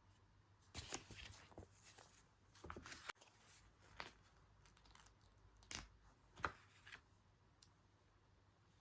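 Paper and stickers being handled while decorating a planner: about half a dozen soft, short rustles and peeling or tearing sounds, spread over the first seven seconds.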